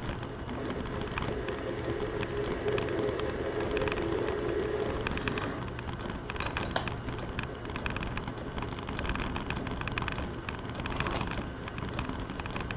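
Metal lathe running with a steady motor hum while a drill bit cuts into the centre of a turned pipe plug, with scraping and light clicks from the cut.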